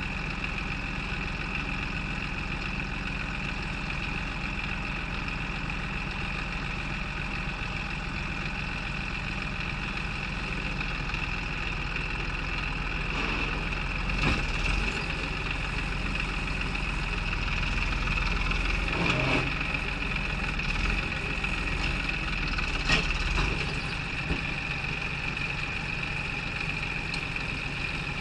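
JCB 3DX backhoe loader's diesel engine running steadily at a low, even speed, with a steady high whine over it. There are a few brief louder moments about halfway through and again later on.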